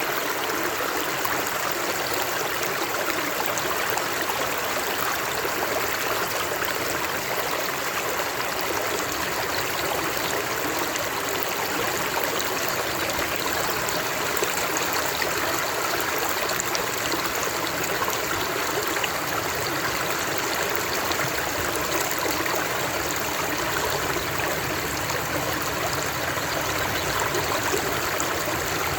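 Flowing water from a stream, a steady splashing rush with no pauses or changes.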